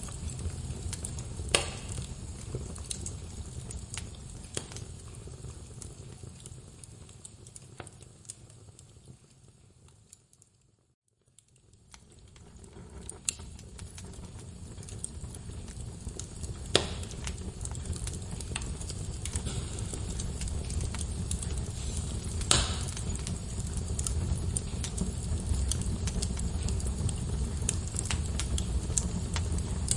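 Log fire crackling in a fireplace: a low steady rumble of flames with scattered crackles and a few sharp pops. The sound fades away to silence about ten seconds in and fades back up a couple of seconds later.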